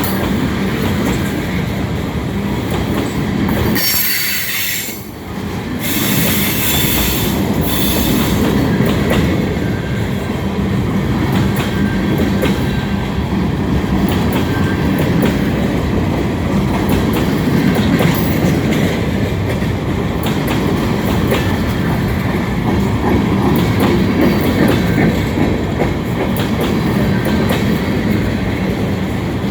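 Cars of a long freight train rolling past at slowing speed, wheels clicking over rail joints and squealing as the train slows to stop in a siding. A bright high hiss or squeal comes in bursts about four to eight seconds in.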